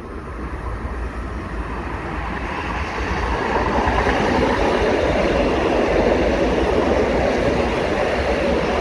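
Long Island Rail Road Bombardier M7 electric train approaching and running past at speed. The rumble of wheels on rail builds over the first three or four seconds, then holds loud and steady as the cars go by.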